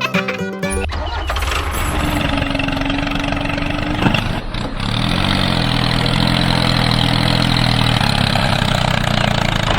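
Music cuts off and a tractor engine starts less than a second in, then runs steadily. About halfway through its note rises and then holds steady.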